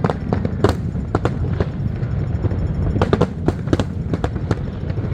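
Aerial fireworks bursting in a fast, irregular string of sharp bangs and cracks, thickest about three to four seconds in, over a steady low rumble.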